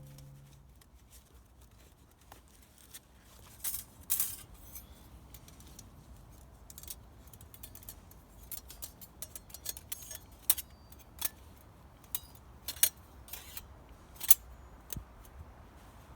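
Small metal parts clinking and clicking at irregular intervals, with a few sharper clicks about four seconds in and several more in the second half.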